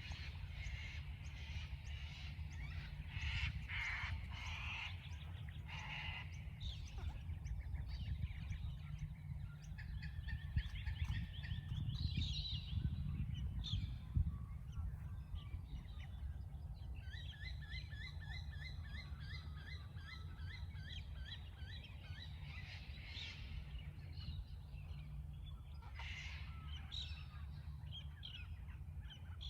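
A chorus of wild birds: harsh, rasping screeches of cockatoos come and go, and a rapid, evenly repeated trill runs for several seconds about halfway through. A steady low rumble lies underneath.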